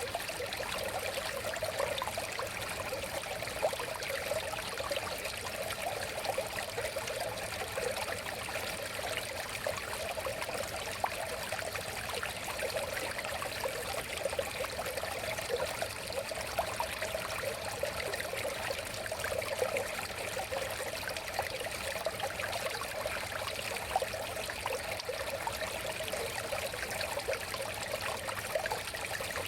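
River water flowing steadily over stones, a constant rushing babble full of small splashes and gurgles.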